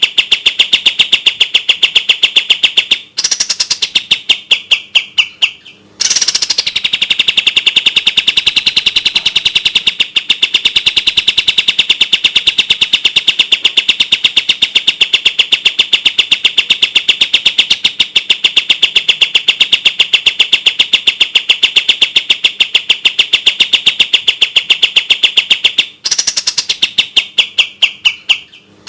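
A kapas tembak bird singing its fast, tightly packed 'tembak' trill: a very rapid string of identical high notes that runs on and on. It breaks twice, about three seconds in and near the end, where the notes slow and drop away into a short pause before the rapid trill starts again.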